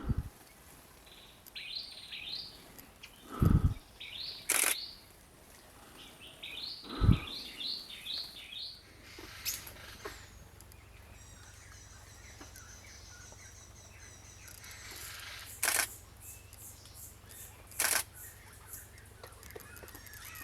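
Small birds calling in quick runs of short chirping notes, three bursts in the first half. Between them come a few dull knocks and several sharp clicks, with a faint low hum in the second half.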